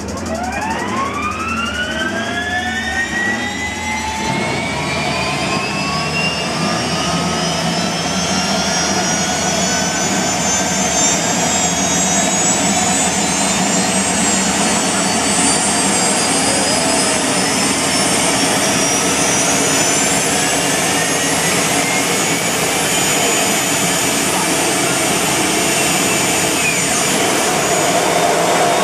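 Turbine engine spooling up: a whine of several tones rising steadily in pitch over about ten seconds, then holding high over a steady roar.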